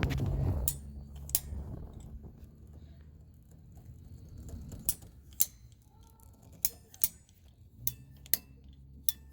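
Sharp, scattered plastic clicks and snaps from handling and cutting short pieces of 3/4-inch PVC pipe and fittings by hand. A low rumble fades out in the first second.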